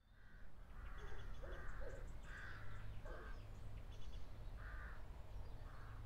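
Crows cawing, about eight harsh calls at irregular intervals, over a steady low rumble.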